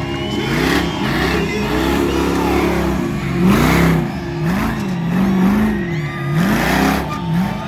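Truck engine being driven hard, revving up and down repeatedly, with louder surges about halfway through and near the end.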